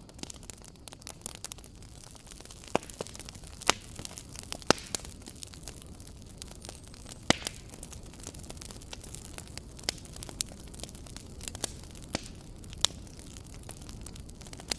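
Wood fire burning in a fireplace: a steady low rumble and hiss with irregular sharp crackles and pops from the burning logs.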